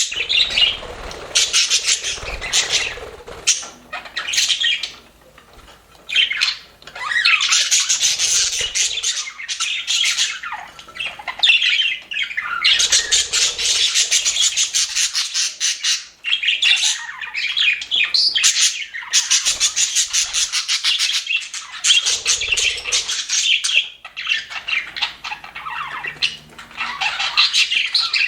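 Budgerigars chirping and chattering together in quick, continuous streams of calls, with a quieter lull about five seconds in.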